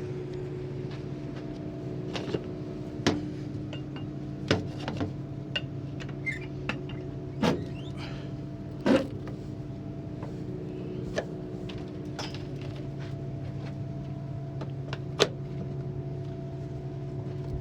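Semi truck's diesel engine idling steadily, with a series of sharp metallic clanks and clicks as the air lines are hooked up to the trailer.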